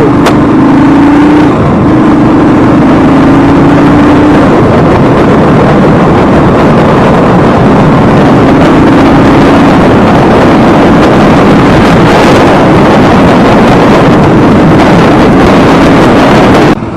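Motorcycle riding at speed: heavy wind rush on the microphone over the engine's steady hum, loud throughout, cutting off abruptly near the end.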